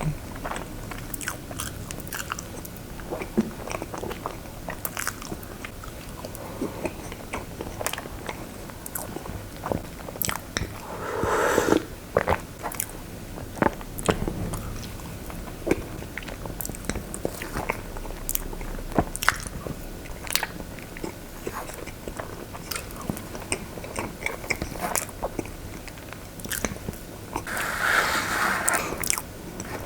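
A person biting and chewing cream cake close to the microphone, with many small sharp mouth clicks throughout and two longer, louder bursts, one about halfway through and one near the end.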